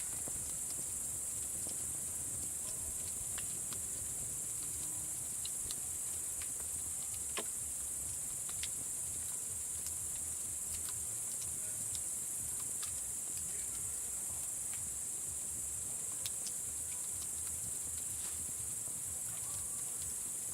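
Evening chorus of crickets, a steady high-pitched trill, with scattered sharp pops and crackles from a wood campfire.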